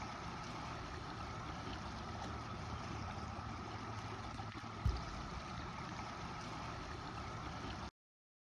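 Steady rushing noise with a faint steady hum, broken by one thump about five seconds in; it cuts off abruptly about a second before the end.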